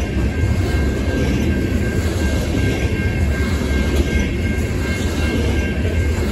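Loaded coke hopper cars of a freight train rolling past, a steady heavy rumble of steel wheels on rail, with a faint steady high whine over it.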